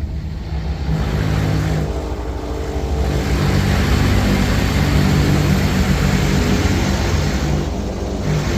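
High-pressure rinse jets of an automatic touchless car wash, with turbo nozzles, blasting water onto the car, heard from inside the cabin as a loud hiss and drumming over the low hum of the wash machinery. The spray swells and eases as the jets sweep across the car.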